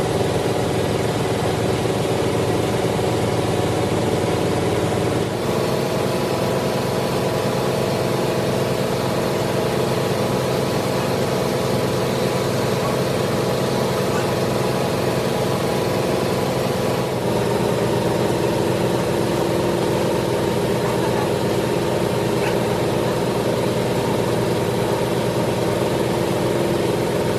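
Lathe machine running steadily, a constant hum of several tones. The sound shifts abruptly about five seconds in and again past the middle.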